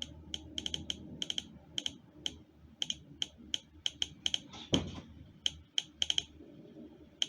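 Typing on a computer keyboard: irregular runs of quick, sharp key clicks, with one duller thump, the loudest sound, about four and a half seconds in.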